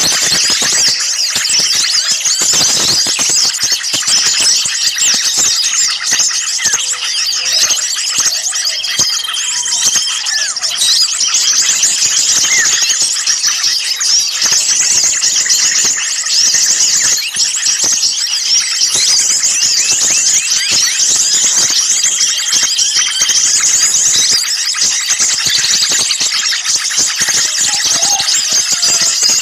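Dense, unbroken chorus of many small birds chirping and calling rapidly in agitation, with a few short held whistles: a bird-lure recording of noisy small birds used to draw wild birds in.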